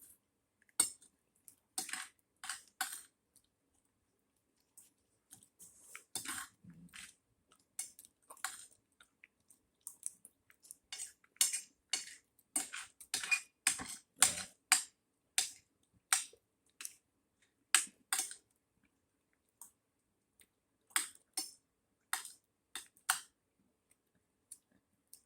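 Cutlery clinking and tapping against plates while eating: many short, sharp clicks at an irregular pace, with brief pauses between them.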